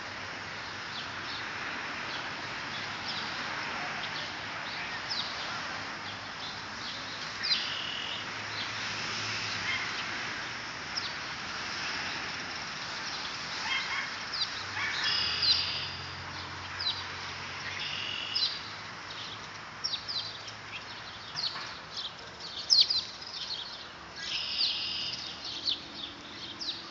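Several birds chirping and calling in short, high notes over a steady background hiss, the calls more frequent and louder in the second half.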